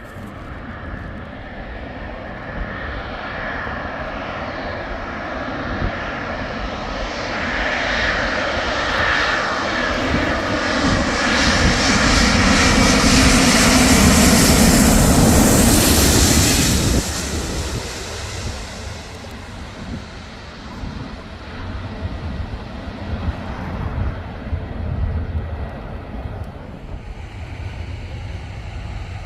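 Airliner passing low overhead on landing approach. Its engine noise builds over about twelve seconds with a whine, is loudest for a few seconds, then drops off sharply and fades away.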